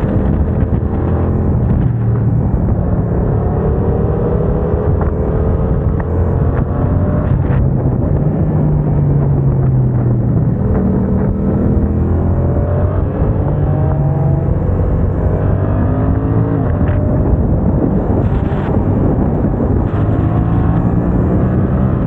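Yamaha MT-07's parallel-twin engine running through a MIVV aftermarket exhaust while being ridden hard, its note climbing again and again and dropping back at each gear change, as a quickshifter does on upshifts.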